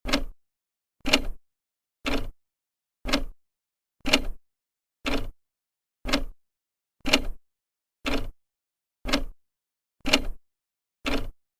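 Old clock ticking steadily, one tick a second as the second hand steps; each tick is a short, sharp click.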